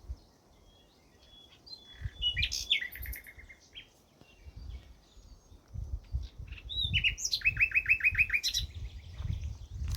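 A songbird singing two phrases, about two seconds in and again near seven seconds, each ending in a quick trill of repeated notes. Low thuds sound underneath.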